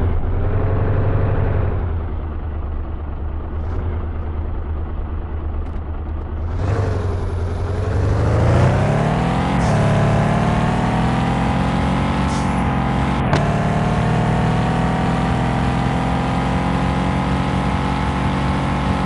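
Fiat Doblo van's engine while driving: the revs fall at first, then about six and a half seconds in it accelerates with a rising pitch, breaks off briefly near ten seconds as a gear is changed, and settles into a steady cruise.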